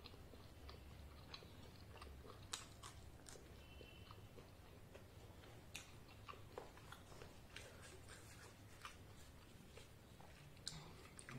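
Faint close-up chewing of soft fried luchi bread with ghugni curry, with scattered small mouth clicks and smacks.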